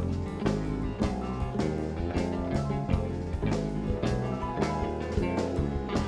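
Live rock band playing an instrumental passage: a steady drum beat of about two hits a second under bass and guitar, with no singing.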